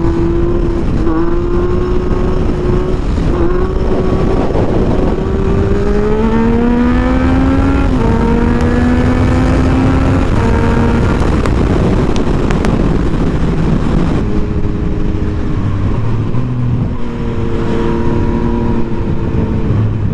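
Motorcycle engine accelerating hard, its pitch climbing and then stepping down at gear changes about 8 and 10 seconds in. The throttle closes about 14 seconds in and the engine then runs at lower, steadier revs, all over heavy wind rush.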